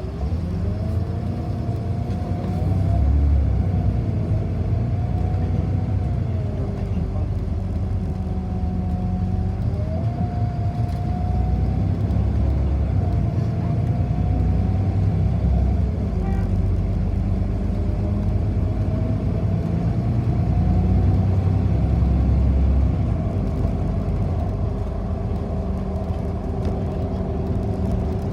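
City bus heard from inside the cabin while driving in traffic: a steady low rumble with a drivetrain whine that rises and falls in pitch as the bus speeds up and slows down.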